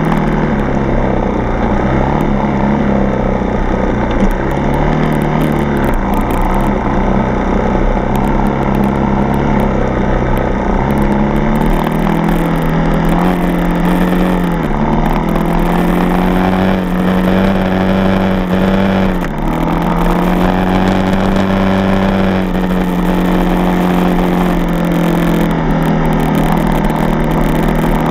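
Four-stroke single-cylinder dirt bike engine running on the trail, its pitch rising and falling with the throttle, with a brief drop in revs about 19 seconds in.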